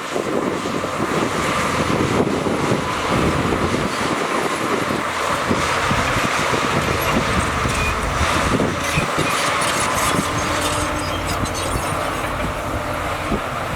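Shantui crawler bulldozer working under load: a steady diesel engine with many short knocks and clanks throughout.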